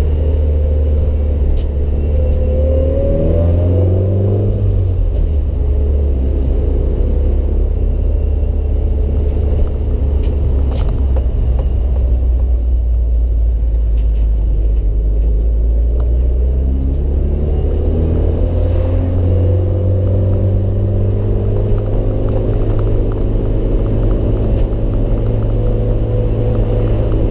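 Mitsubishi Lancer Evolution VIII's turbocharged 4G63 four-cylinder engine running, heard from inside the cabin during gentle driving kept off boost while a new clutch is broken in. The revs climb twice, a few seconds in and again past the middle, and hold steady in between.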